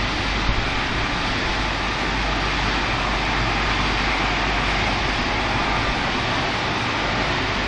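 Automatic car wash machinery running: a steady rush of water spray and motors with a low rumble underneath.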